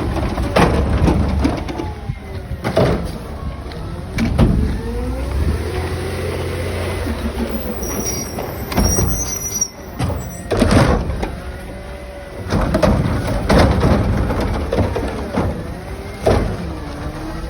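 Garbage truck at work: its diesel engine rumbles and revs up and down while bins bang and clatter against the truck several times.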